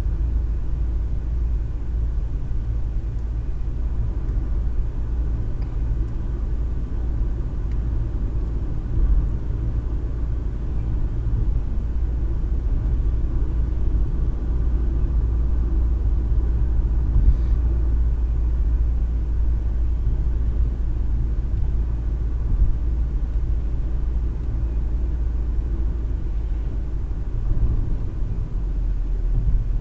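A car driving steadily on the highway, heard from inside the cabin as a steady low road and engine rumble.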